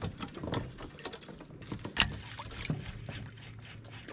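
Irregular light knocks and clatter of gear against a kayak, with the sharpest knock about two seconds in.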